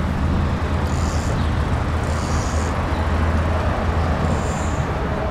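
Steady low rumble of a Skoda Octavia's 1.4 TSI turbocharged four-cylinder petrol engine idling. The engine is heard from the rear of the car and blends with surrounding traffic noise.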